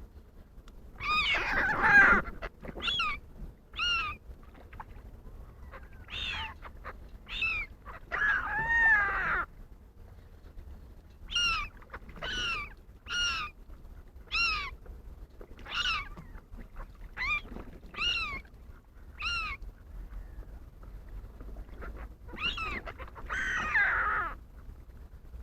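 Wild water birds calling repeatedly, a string of short, mewing calls that rise and fall in pitch, with a few longer, harsher calls among them.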